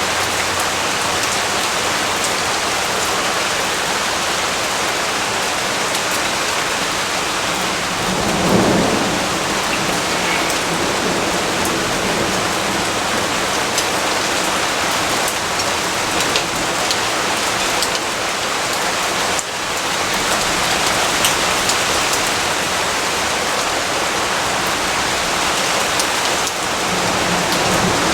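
Steady heavy rainfall, a dense even hiss of drops on surfaces, with a brief rumble of thunder swelling about a third of the way through.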